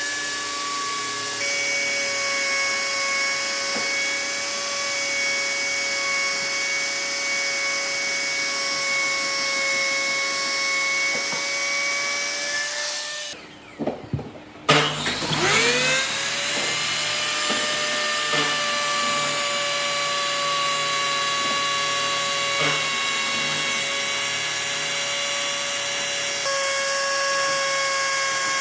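Electric power tool motor running with a steady high whine over a hiss. About halfway through it cuts out for a second or so, then spins back up with a rising whine and runs steadily again.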